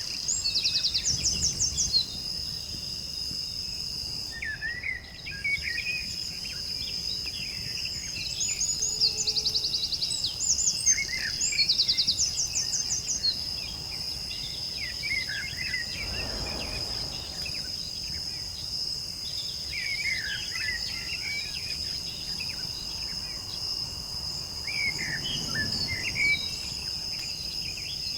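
Countryside ambience: birds chirping and trilling over a steady high insect drone, with two soft low swells about halfway and near the end.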